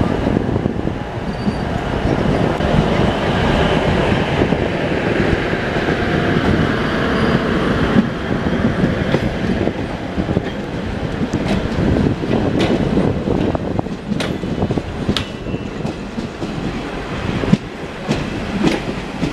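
A passenger train running on the rails: a continuous rumble of wheels with clattering over rail joints and points, and sharp clicks in the last few seconds.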